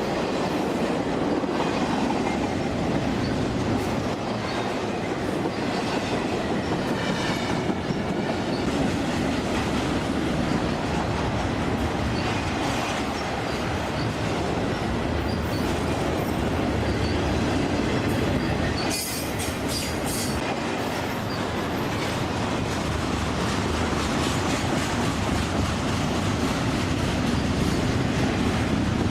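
Railroad cars rolling steadily past, wheels clicking over the rail joints, with a few brief high wheel squeals, the clearest about two-thirds of the way through.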